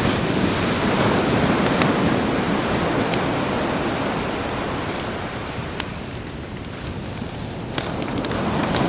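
Sea waves washing onto a shore, the wash swelling, easing off and swelling again near the end, with a few sharp crackles from a campfire.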